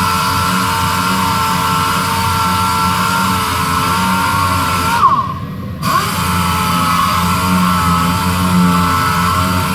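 Power sander running with a steady whine, sanding a surface down for primer. About five seconds in the motor winds down and stops briefly, then spins back up within a second and runs on.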